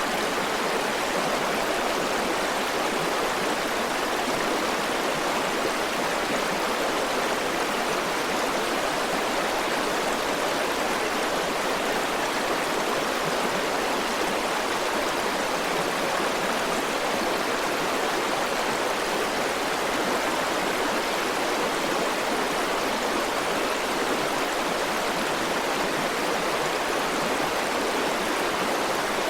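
A river's flowing water, rushing steadily and evenly without a break.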